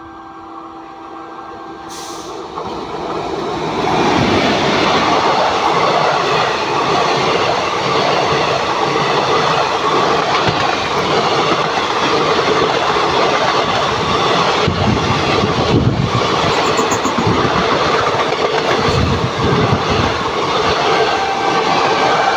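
Passenger train approaching and running past close at speed: the noise builds over the first four seconds, then stays at a steady loud rumble and rattle of coaches and wheels on the track.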